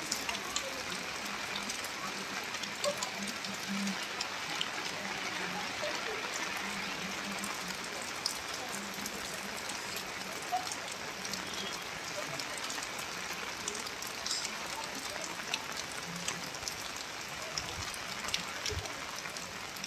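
Steady rain falling, an even hiss dotted with many sharp taps of drops striking close by.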